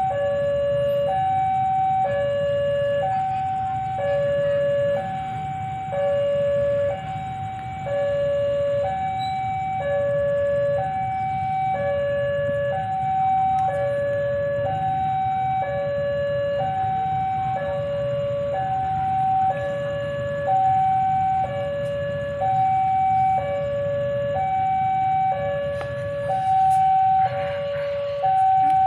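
Railway level-crossing warning alarm sounding continuously, two tones alternating high and low about once a second, over a low steady rumble.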